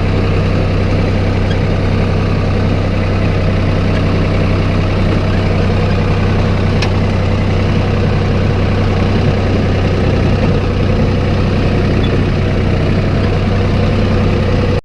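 Engine of a snowplow vehicle running steadily with a constant low hum.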